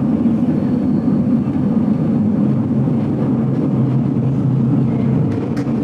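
Steady running rumble of a vintage railway carriage in motion, heard from inside the carriage, with a faint click near the end.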